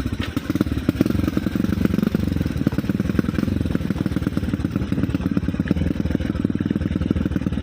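Motorcycle engine running steadily, a rapid even stream of firing pulses with no revving.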